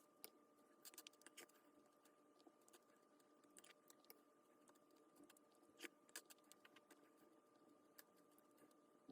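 Near silence: faint room tone with a steady faint hum and scattered faint clicks.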